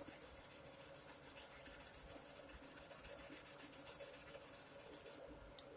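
Steel wool rubbed back and forth over guitar frets, a faint run of quick, even scratchy strokes, polishing the fret crowns smooth after a fret level.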